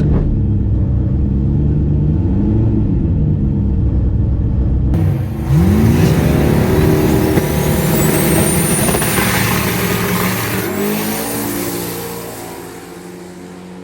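Turbocharged V8 drag car: the engine runs with a low, wavering note, then about five seconds in it goes to full throttle with a whistle rising over the next few seconds, and the sound fades near the end.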